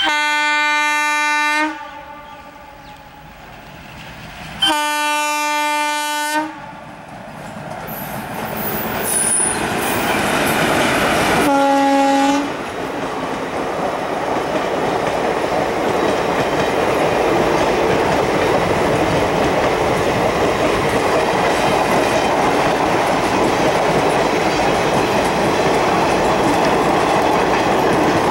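Locomotive air horn sounding two long blasts a few seconds apart, then a shorter third blast about twelve seconds in. Between and after them a passenger train's rumble builds as it draws near, then holds steady as the coaches roll past with the clickety-clack of wheels on the rails.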